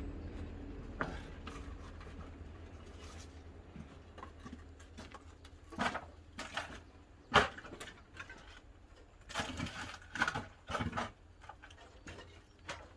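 Pine firewood burning in a wood-fired kiln: irregular sharp pops and crackles, the loudest about seven seconds in and a cluster a couple of seconds later, over a low steady rumble that fades over the first few seconds.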